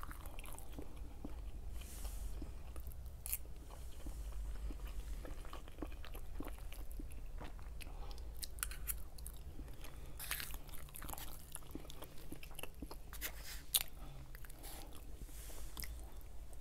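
Close-miked chewing and mouth sounds of a person eating forkfuls of food, with many short wet clicks and smacks scattered throughout.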